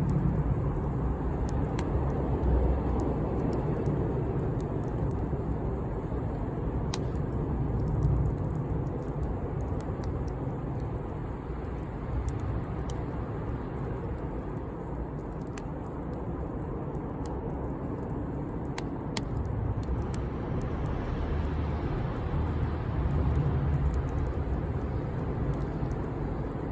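Wood fire burning: a steady low rumble with scattered sharp crackles and pops every second or few seconds.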